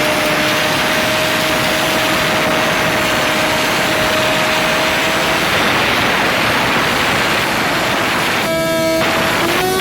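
Motorcycle engine held at high, steady revs under a loud rushing noise, its tone sinking slightly before fading out about halfway through; a short choppy patch follows near the end.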